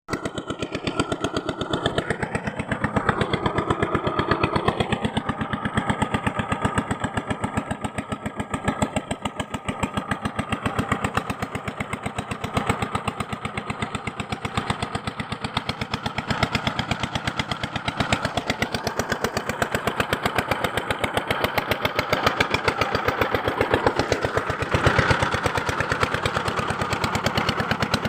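A small machine running steadily with a fast, even pulse.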